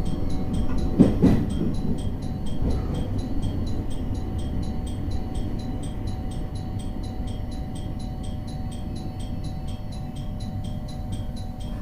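Electric multiple unit (E721-500 series) running on the rails, heard from on board as a steady low rumble. There is a brief wheel clatter over track joints about a second in, and the rumble grows gradually quieter after that.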